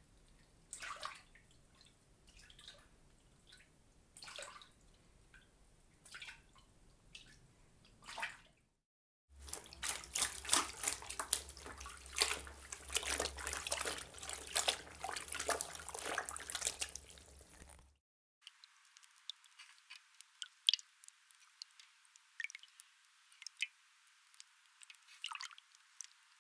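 A run of water splash sound effects. First come single small splashes or drips every second or two. Then there are about nine seconds of dense, loud splashing. Last comes a series of small, thin drips.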